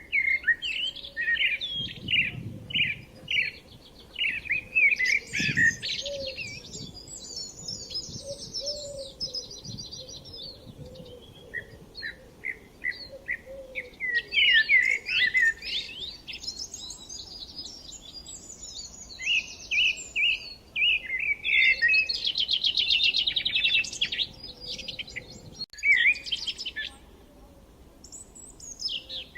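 Songbirds chirping and singing in phrases of quick notes and fast trills, with short pauses between phrases.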